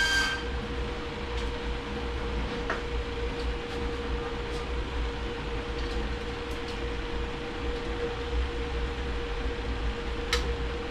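Steady machine hum with a constant droning tone, and a few faint light clicks; a high whistling tone cuts off just at the start.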